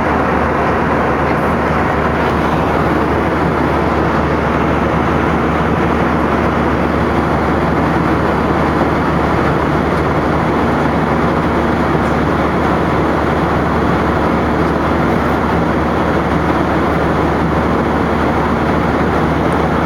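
Steady airplane cabin noise by the right wing: engine and airflow noise as an even, unbroken rush with a low hum under it.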